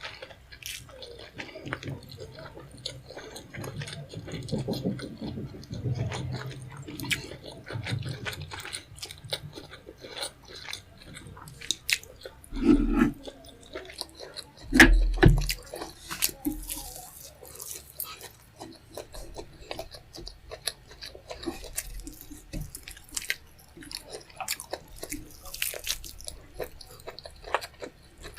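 Close-miked chewing and wet mouth sounds of someone eating a rice and tomato stew meal with fish head, with many small clicks. Two louder low thumps come about halfway through.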